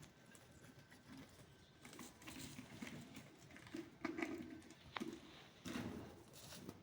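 Faint pet parrot sounds in a small room: soft low mutters and scattered taps and scratches, with a sharp click about five seconds in.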